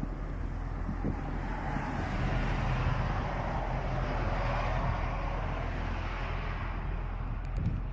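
Engines running steadily with a low hum, with a broad rushing swell that builds in the middle and fades.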